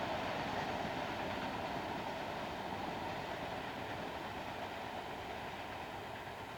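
Passing train: a steady rolling rumble that slowly fades away.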